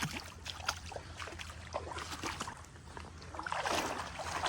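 Footsteps wading through shallow water, small splashes and sloshes at each step, with a louder stretch of sloshing about three and a half seconds in.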